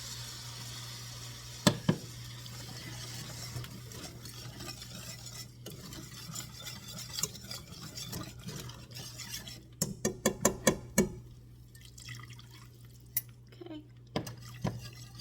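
Wire whisk stirring a roux in a pan as broth is poured in, scraping and swishing, with sharp clinks of metal on the pan twice about 2 s in and a quick run of about six clinks near the end.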